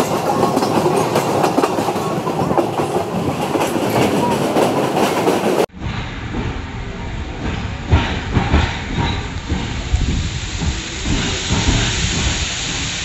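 Passenger train running along the track, its wheels clattering on the rails under a dense, steady rolling noise. About halfway through, the sound cuts abruptly to a duller recording of the running train with irregular low thuds.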